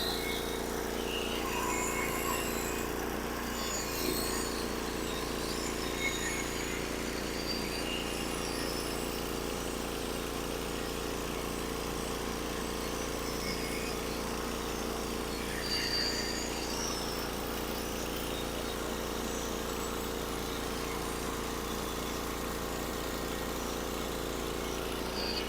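Gasoline engine of a portable bandsaw sawmill running steadily at a constant pitch while the mill saws a pine log.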